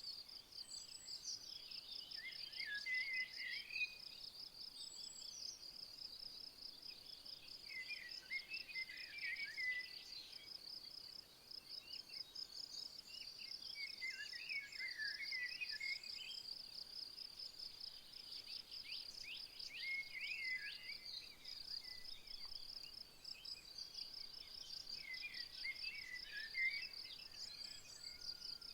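An insect's steady, high, pulsing trill, with a songbird singing a short warbling phrase about every five or six seconds.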